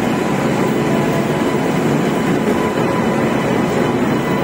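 Indian Railways WAP-7 electric locomotive and its train rolling past close by: a loud, steady running noise of wheels on rail with a faint steady whine.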